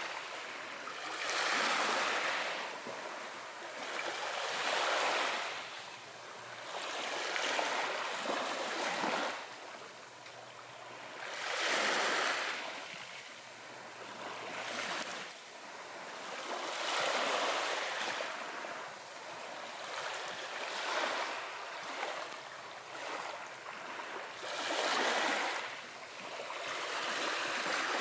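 Ocean waves washing in. Each surge of hissing water swells and fades, one roughly every three to four seconds.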